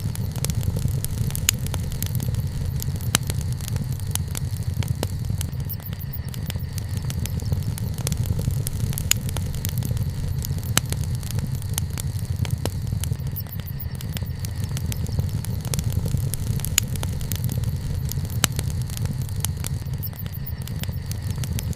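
Wood campfire burning, crackling with frequent sharp pops and snaps at irregular intervals over a steady low rumble.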